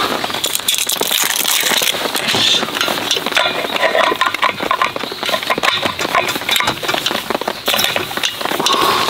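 Heavy rain pattering down: a dense, irregular spatter of drops.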